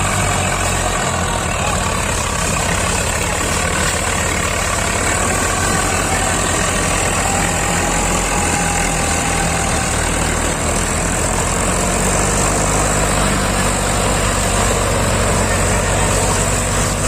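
Heavy diesel engine running steadily, a low even rumble.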